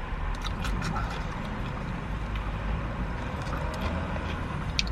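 Chewing, with small clicks from takeaway food and its cardboard packaging being handled, over a steady low rumble.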